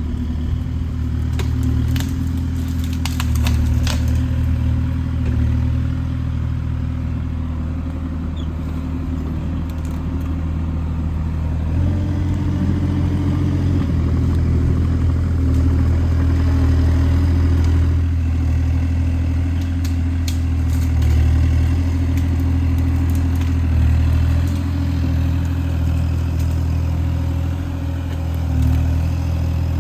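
Kubota KX040 mini excavator's diesel engine running steadily, with a few sharp clanks in the first few seconds. The engine note steps up slightly about twelve seconds in.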